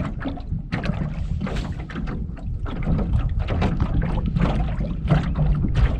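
Wind buffeting the microphone, a steady low rumble, with small irregular splashes of water lapping against the rowboat's hull.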